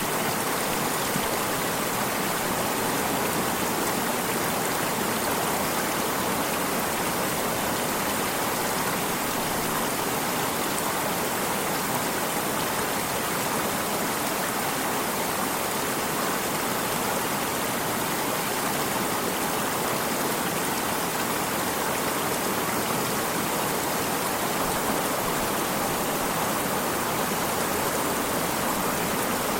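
Water in a stream running steadily: an even, unbroken rush of flowing water.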